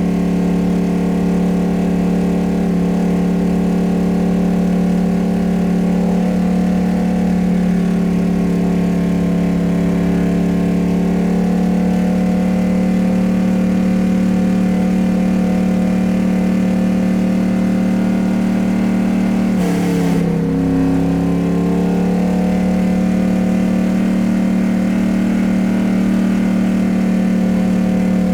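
A vehicle engine running at a steady speed with an even hum. About twenty seconds in there is a short click, and the pitch dips briefly before settling back.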